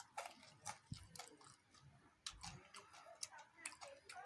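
Faint, irregular clicks and smacks of someone chewing food close to the microphone.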